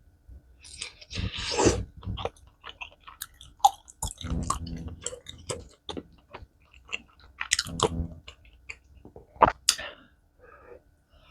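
A person chewing and biting food from a spicy tteokbokki meal: irregular mouth clicks and smacks, with a few louder bites about a second and a half in, around four and a half seconds, and near eight and nine and a half seconds.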